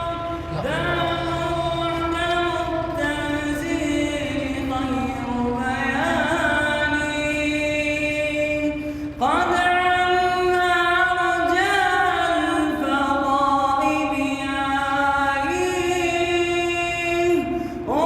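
A young man singing a nasheed (Islamic devotional chant) solo and unaccompanied, drawing out long, ornamented notes in two phrases with a breath between them about nine seconds in.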